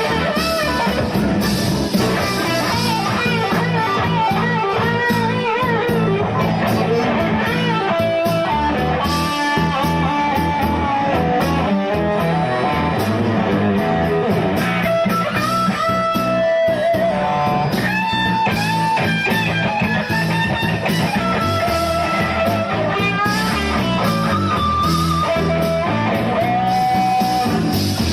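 Blues-rock music led by electric guitar, with bass and a steady beat; the lead guitar plays a melody with bent notes.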